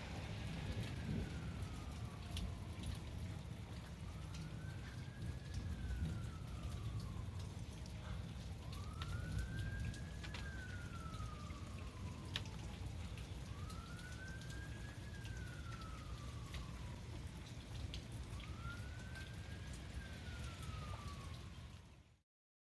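Steady noise of a rain and hail storm, with scattered sharp hits of hailstones, while a siren wails slowly up and down: five rising-then-falling cycles about four and a half seconds apart. The sound cuts off suddenly near the end.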